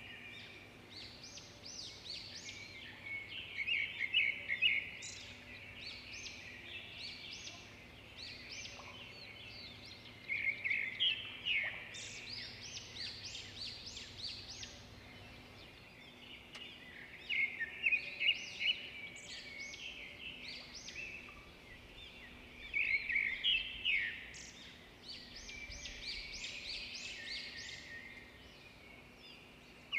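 Birds chirping and singing in short chattering phrases, with a louder burst every six or seven seconds.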